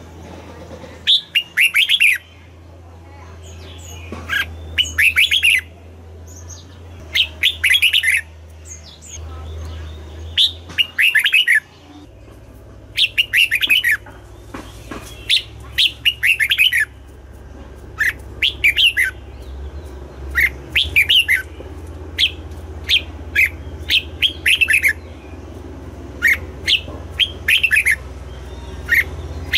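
Red-whiskered bulbul singing short phrases of quick chirping notes, a phrase every one to three seconds, with a steady low hum underneath.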